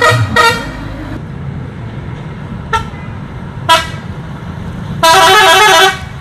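Vehicle horn honking over a steady engine rumble: a short honk at the start, two brief toots around three and four seconds in, then a loud, warbling multi-tone horn blast lasting about a second near the end.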